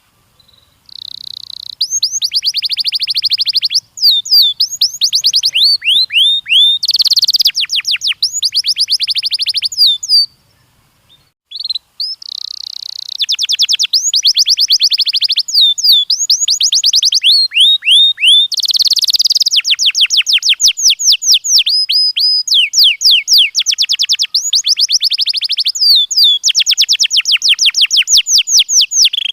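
Domestic canary singing: long phrases of fast trilled notes, each phrase repeating one note type quickly before switching to another, with a short pause about ten seconds in.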